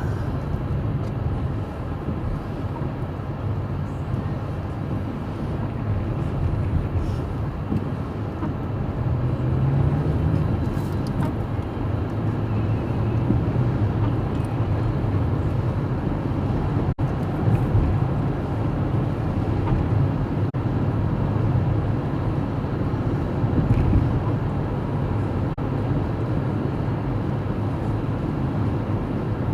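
Steady engine and tyre rumble heard from inside a moving car, with the engine note rising briefly about ten seconds in.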